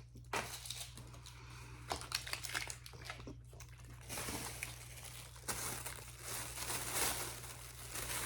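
Plastic snack packaging crinkling and rustling as it is handled, with scattered small clicks and taps.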